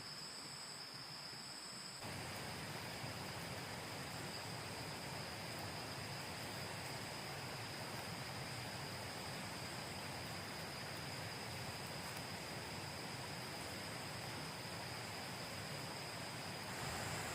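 Forest insects giving one steady, high-pitched drone, over a steady rushing hiss that gets louder about two seconds in.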